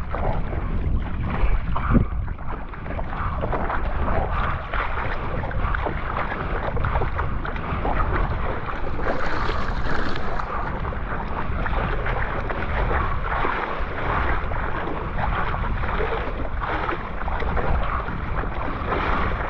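Water splashing and sloshing as a rescue board is paddled across open water, with wind buffeting the microphone.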